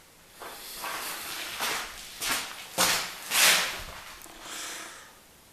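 Irregular rustling and shuffling noises: a series of short swishes, the loudest a little past the middle.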